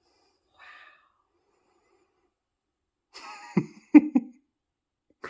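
A person's short, breathy vocal sounds: a breathy burst about three seconds in, then a few sharp, loud puffs of breath.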